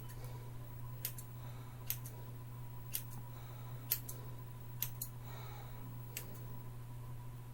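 Scissors snipping through hair, as a person trims their own hair: sharp snips about once a second, some in quick pairs, over a steady low hum.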